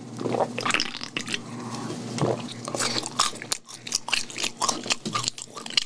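Close-miked chewing of crispy boneless fried chicken, with irregular crunches throughout.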